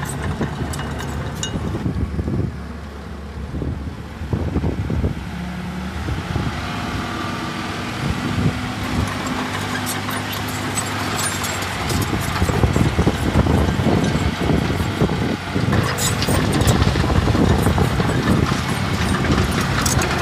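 Heavy diesel earthmoving machinery running with a steady low engine note. From about twelve seconds in it grows louder, with dense rattling and knocking.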